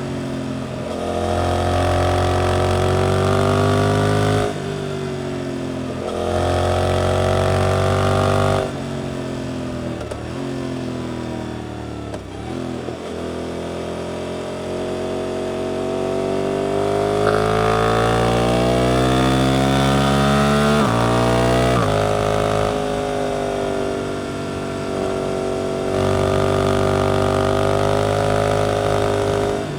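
Suzuki GSX-8S parallel-twin engine through an Arrow aftermarket exhaust, pulling up through the gears with the revs climbing and dropping at each upshift. Around the middle it comes off the throttle and the revs fall and rise again, then it makes one long hard pull followed by two more shifts.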